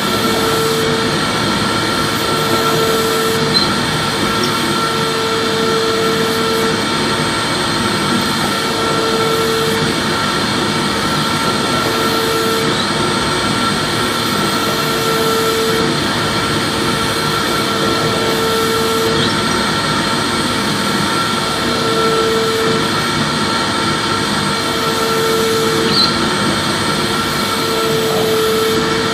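Vacuum cleaner motor running steadily, a dense rushing noise with a constant high whine and a lower hum that swells in and out every few seconds.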